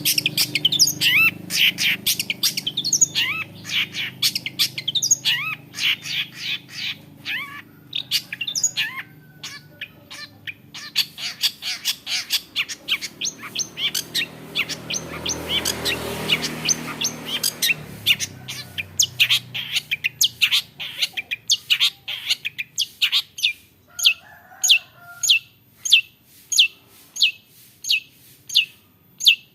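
Long-tailed shrike singing a fast, dense run of sharp, high, down-slurred notes, with a brief lull partway through. Near the end it settles into an even series of sharp notes, about two a second.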